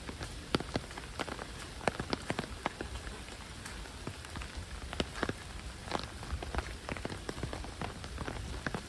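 Heavy rain falling steadily, with many sharp, close raindrop taps scattered irregularly over a steady hiss.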